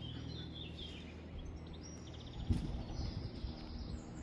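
Small birds chirping and trilling faintly over a steady low background hum, with a brief low rumble about two and a half seconds in.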